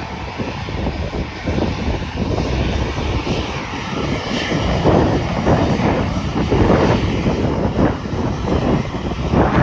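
Airplane engines running at an airport, a loud noisy rumble that surges irregularly and grows louder about halfway through, with wind buffeting the microphone.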